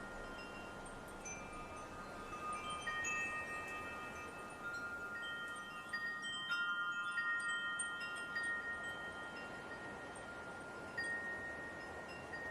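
Wind chimes stirred by a light breeze, several pitches struck at irregular moments and ringing on, overlapping, with the busiest cluster of strikes about halfway through, over a steady soft hiss.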